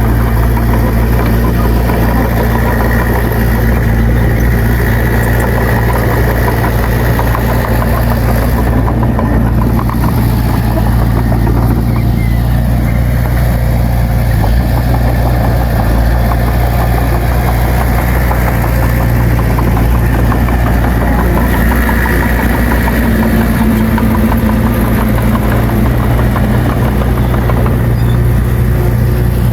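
Bulldozer's diesel engine running at a steady pitch and load.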